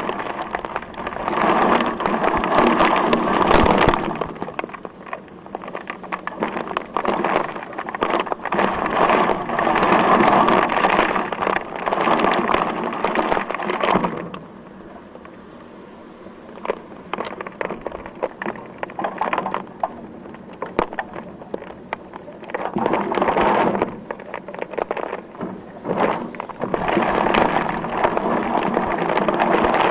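Heavy rain pouring down, swelling and easing every few seconds, with many sharp drop impacts through it; it is quieter for a few seconds around the middle.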